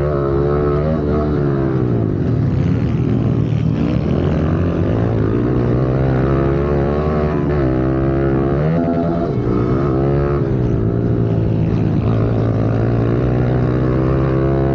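Pit bike engine at race pace, its pitch climbing and dropping back again and again as the throttle is opened and closed and gears are changed.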